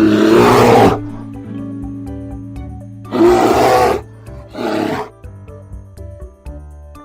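A large animal roaring three times, a long call at the start, another about three seconds in and a shorter one just after, over steady plucked-string background music.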